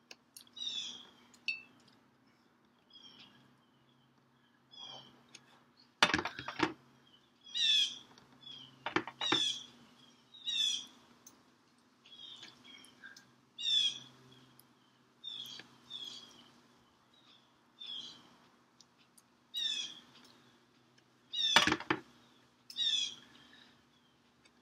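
A bird calling over and over in short high chirps, roughly one a second. Three loud sharp clicks stand out, about six and nine seconds in and near the end, over a faint steady hum.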